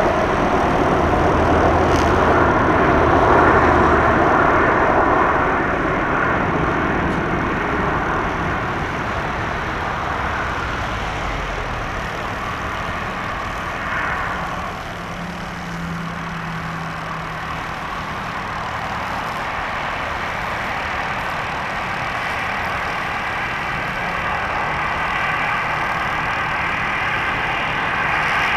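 Jet engine noise from an Airbus A340-300's four CFM56 turbofans during its landing. It is loudest at the start, fades through the middle, and builds again near the end.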